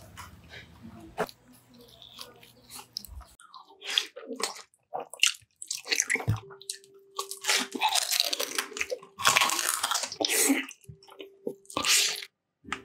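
Close-miked chewing and crunching of crisp food: soft chewing at first, then from about three seconds in a dense run of sharp, loud crunchy bites. A steady humming tone sounds twice under the crunching in the second half.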